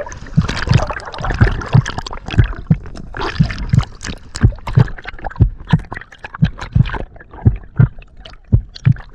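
Water gurgling and sloshing close to the microphone, with irregular low thumps about twice a second.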